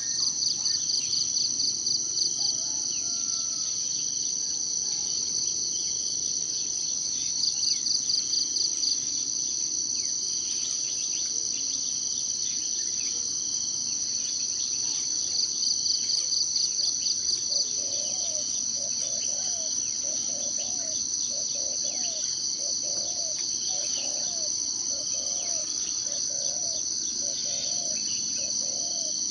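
A steady, high-pitched chorus of insects trilling, swelling every several seconds into louder, fast-pulsing bursts. From about halfway through, a run of short, low, repeated calls from some other animal joins in, one or two a second.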